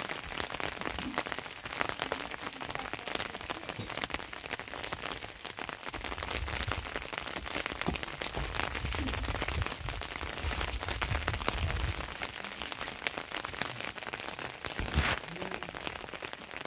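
Rain falling steadily on the ground and stone surfaces: a dense, even scatter of drops. A low rumble comes in for several seconds in the middle, and a single sharp knock sounds near the end.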